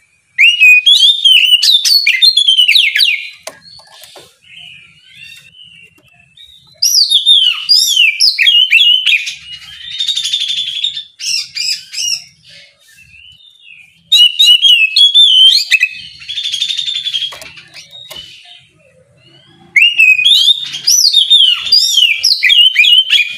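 Oriental magpie-robin (kacer) singing loud, varied whistled song with quick gliding notes and rapid trills, in four bursts separated by short quieter pauses.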